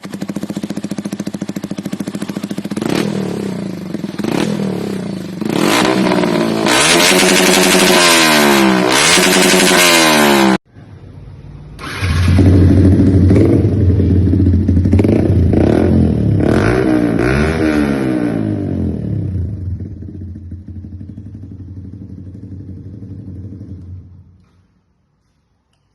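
Motorcycle fitted with an aftermarket Akrapovic titanium exhaust being revved, its pitch rising and falling with repeated throttle blips. The sound cuts off abruptly about ten seconds in. A second run of revs follows and fades out near the end.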